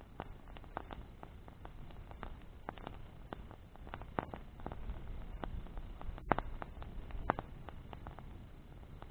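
Bonfire of burning branches crackling, with irregular sharp pops, the two loudest about six and seven seconds in, over a low steady rumble.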